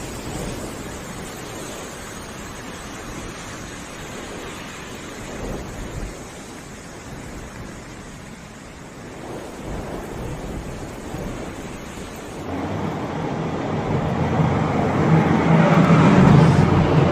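Storm noise of wind and rushing water. About twelve and a half seconds in it changes to louder noise with a low steady hum.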